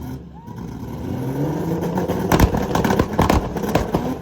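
A car engine revving up with rising pitch. From about two seconds in, rapid, irregular loud exhaust pops and bangs follow, typical of a two-step launch-control rev limiter.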